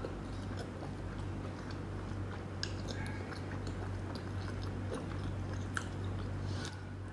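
Close-miked chewing with the mouth closed: small wet clicks and smacks, scattered unevenly, over a steady low hum.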